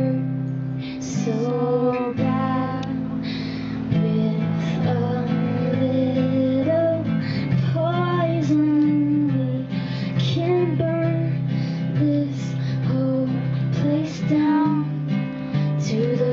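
A woman singing a song to a strummed acoustic guitar.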